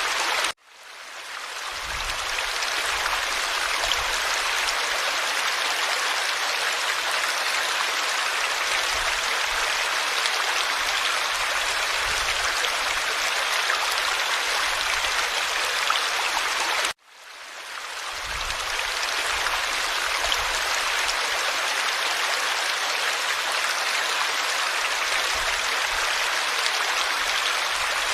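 Forest stream water flowing over stones, a steady rushing babble. About half a second in and again about 17 seconds in, the sound cuts out abruptly and fades back in over a second or two.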